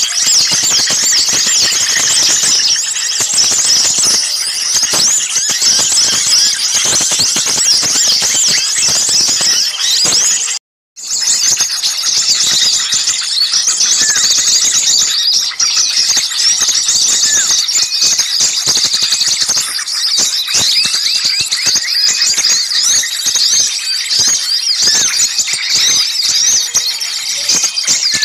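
Dense, frantic chorus of many small songbirds calling at once: rapid high chirps and shrill scolding calls overlapping without a break, the agitated mixed-flock racket used as a bird-luring call. It cuts out completely for a split second a little over ten seconds in.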